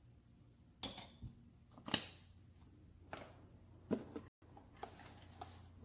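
A few sharp knocks and clicks from kitchen utensils and containers being handled while dry ingredients are added to the egg food. The loudest knock comes about two seconds in, and fainter clicks follow near the end.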